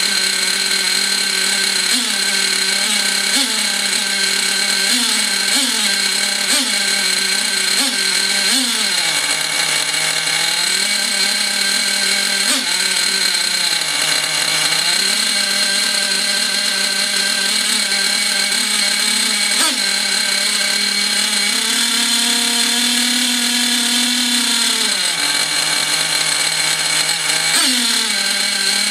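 O.S. Max two-stroke glow (nitro) model engine running fast and rough during break-in on a very rich needle setting, mounted on a wooden crate that amplifies it. Its pitch keeps wavering: brief upward blips about every second and a half at first, sags that recover twice, a rise to a higher pitch, then a sharp drop and pick-up near the end. The owner puts the rough running mostly down to two-year-old fuel and an exhaust not suited to the engine.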